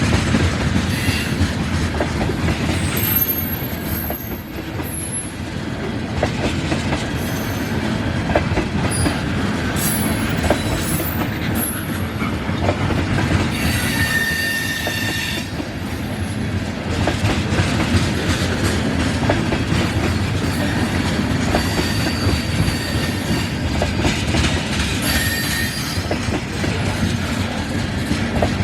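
Cars of a mixed freight train rolling past, steel wheels clicking over rail joints in a steady rumble, with high wheel squeals coming and going; the longest is about halfway through.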